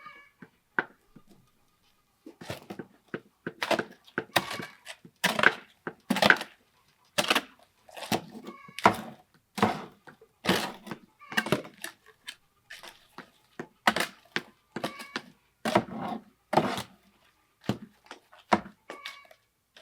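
An irregular series of knocks and thuds, about one or two a second, some much louder than others.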